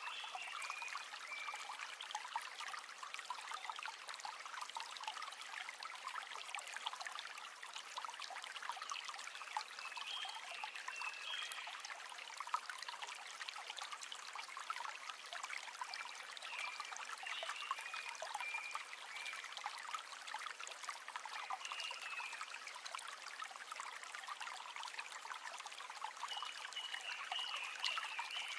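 River water trickling and babbling steadily over stones, with short high warbling notes recurring every few seconds.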